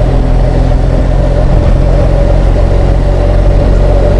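BMW R1200GS Adventure's boxer twin engine running at a steady cruise, with wind and road noise on the helmet-mounted microphone.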